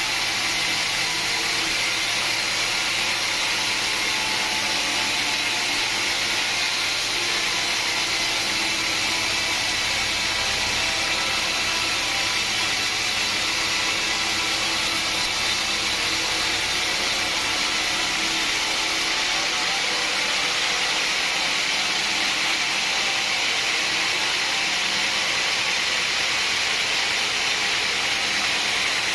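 Sawmill saw running steadily, a loud even whine and hiss with no let-up.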